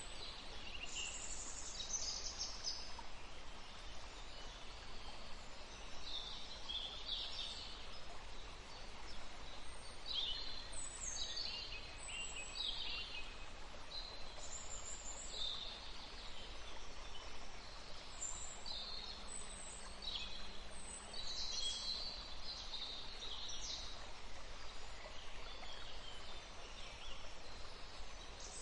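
Forest birdsong: several small birds chirping and trilling in short high phrases, scattered throughout, over a steady soft background hiss.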